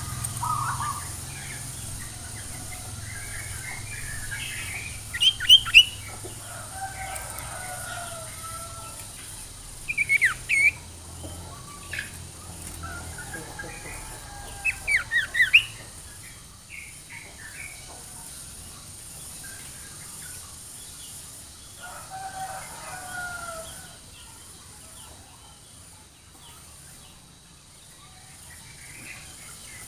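Sirtu songbird song used as a trigger call: soft warbling chatter broken by short bursts of sharp, rapid chirps, the loudest about five, ten and fifteen seconds in.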